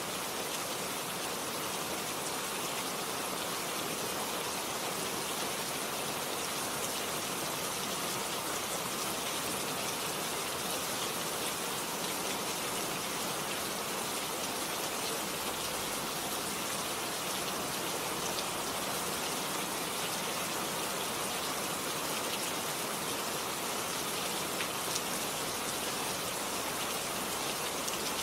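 Steady rain falling, a dense even hiss with a few separate drops ticking through it.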